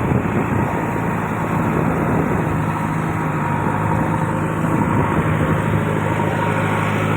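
Heavy diesel engine running steadily, with a constant low hum.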